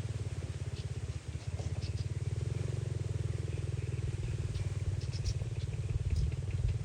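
A steady low rumble with a fast, even pulse, with short high chirps of small birds scattered over it, more of them in the second half.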